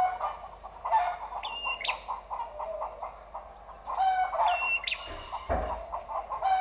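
Prenjak (prinia) calls: quick chirping phrases with short whistled notes, repeating in groups about every two seconds, used as a lure to set a prenjak singing. A low thump about five and a half seconds in.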